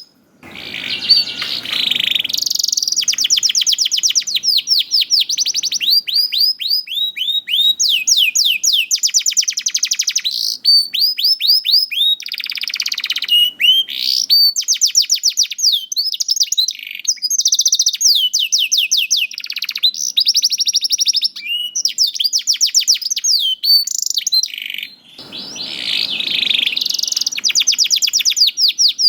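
A young domestic canary singing a long, unbroken song of fast trills, one phrase of rapidly repeated high notes after another. There are harsher, rasping rolls about a second in and again near the end.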